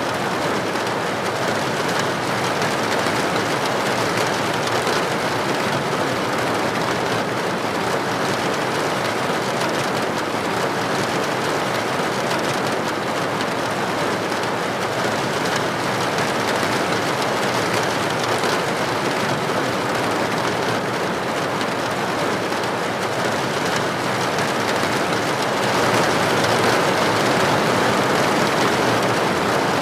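Steady heavy rain on a window or roof, a dense even patter that swells slightly louder near the end.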